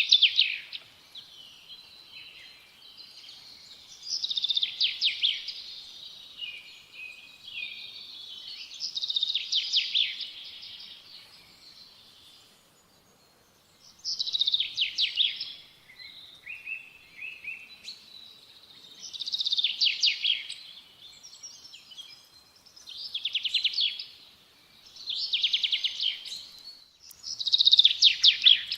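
A songbird singing the same kind of short, rapid phrase of quick repeated notes over and over, one every few seconds, with softer chirps between the phrases.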